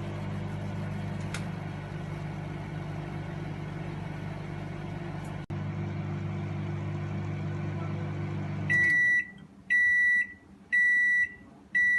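Microwave oven running with a steady hum, which stops about nine seconds in, followed by four long beeps about a second apart: the microwave's end-of-cycle signal that cooking is finished.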